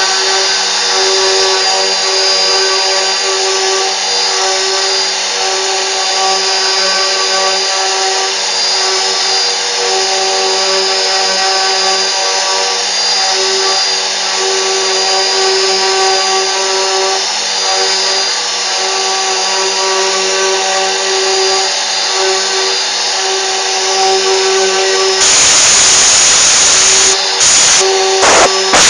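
CNC machine running steadily, a whine of many steady tones over a noisy hiss. About 25 seconds in a louder rushing hiss joins for a few seconds, then cuts off in stutters near the end.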